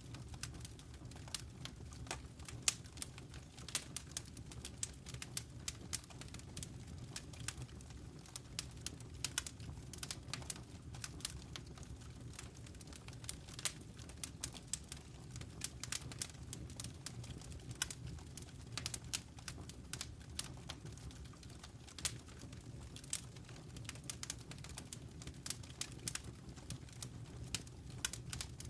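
Wood fire crackling in a fireplace: irregular sharp pops and snaps several times a second over a steady low rumble of burning flames.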